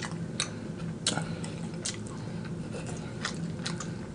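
Close-miked chewing of fried chicken wings: irregular soft wet clicks and smacks from the mouth, over a faint steady low hum.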